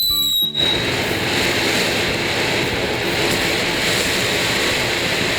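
Ground fountain firework spraying sparks with a loud, steady hiss. A high whistle glides down in pitch at the start.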